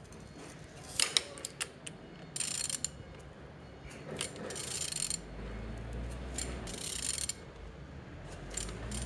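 Used car engine being turned over by hand, its crankshaft rotated with a ratchet wrench: scattered ratchet clicks and rasping runs of the pawl between strokes, with a low rumble of the engine's internals turning over about halfway through. The engine turns freely, a sign that it is not seized.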